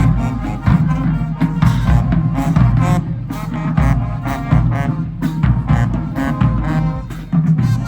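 High school marching band playing: brass over a driving drum beat.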